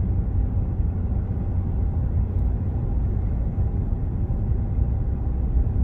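Steady low rumble of a car driving along: engine and road noise.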